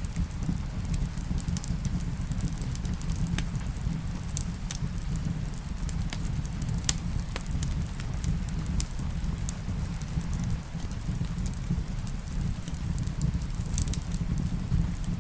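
Wood fire crackling, with scattered sharp pops (the strongest about seven seconds in), over a steady low rumble and a soft hiss of rain.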